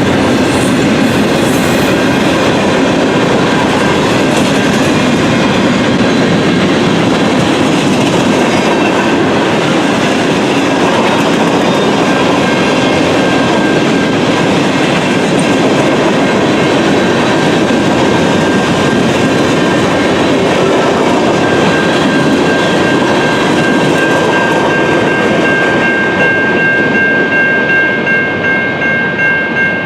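A freight train passing close by: a loud, steady rumble and rattle of wheels on rail. About twenty seconds in, a steady high-pitched tone joins in, and near the end the clatter turns into a regular pulse as the cars roll past.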